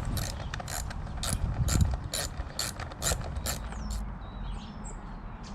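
Hand ratchet clicking in a steady run, roughly three clicks a second, as a motorbike panel screw is undone. The clicking stops about four seconds in, and a bird chirps faintly near the end.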